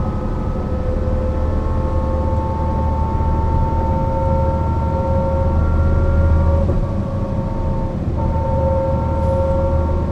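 Mercedes-Benz O 405 NÜ bus under way: diesel engine rumble with a drivetrain whine that rises slowly in pitch as the bus gathers speed, easing off briefly about seven seconds in before the pull resumes.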